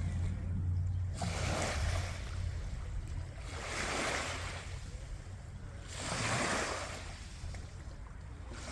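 Wind rumbling on the microphone, with three rushing swells of water noise about two and a half seconds apart, waves washing in on the lakeshore ahead of a thunderstorm.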